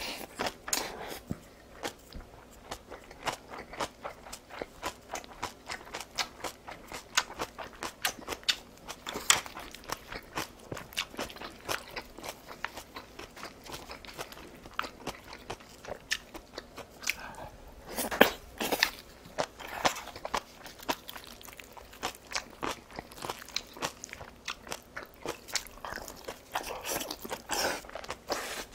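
A person chewing a mouthful of food close to the microphone: a steady run of irregular crunches and mouth clicks, several a second, with the loudest crunches about 18 s in.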